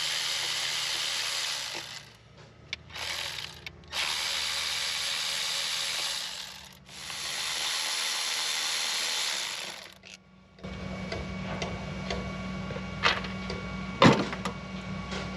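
A power driver with an 8 mm socket runs in several steady spells of two to three seconds, with a short burst in between, backing out small cover screws. After that a low steady hum is heard, with two sharp clicks near the end.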